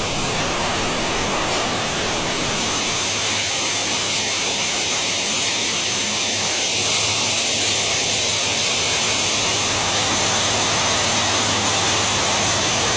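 Heavy railway track-laying machinery running with a steady, loud, unbroken rushing noise over a constant low hum.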